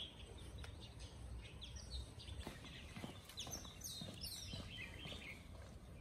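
Faint chirping of small birds, with a run of quick descending chirps in the second half, over a low steady background rumble.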